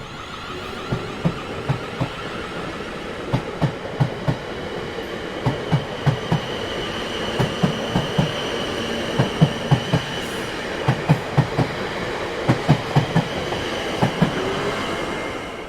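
Train rolling past, its wheels clacking over rail joints in regular groups of two and three knocks over a steady rumble, with a thin high whine in the middle; it fades out near the end.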